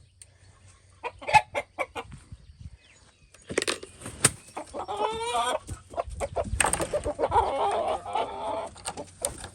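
Chickens clucking: a few short clucks at first, then from about halfway a busier run of overlapping clucks and squawks, with one longer wavering call about five seconds in.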